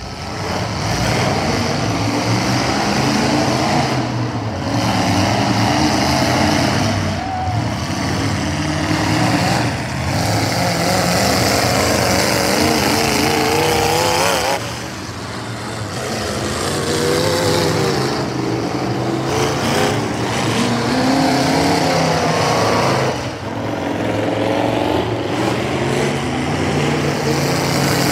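Destruction derby cars' engines running hard around a dirt oval, several at once, revving up and falling back again and again as they race.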